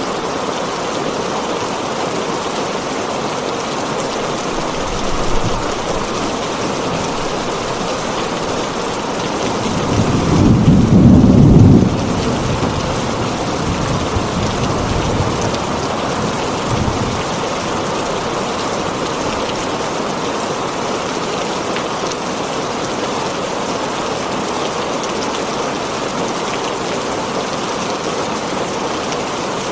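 Heavy rain drumming steadily on a tin roof. About ten seconds in, a low rumble of thunder swells for a couple of seconds and is the loudest sound, with fainter rumbles before and after it.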